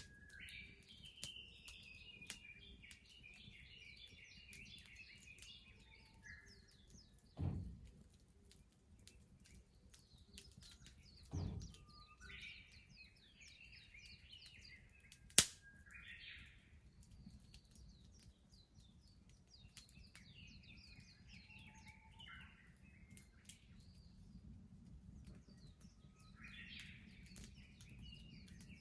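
Wood bonfire crackling with scattered small pops and one sharp, loud pop about halfway through, while small songbirds sing in repeated twittering phrases. Two dull thuds come about a quarter and two-fifths of the way in.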